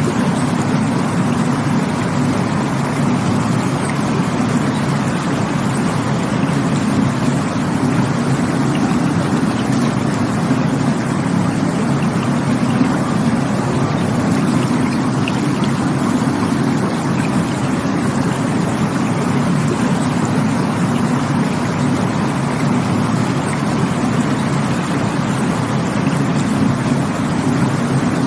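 Steady rush of flowing water, a constant low, even roar with no breaks or changes.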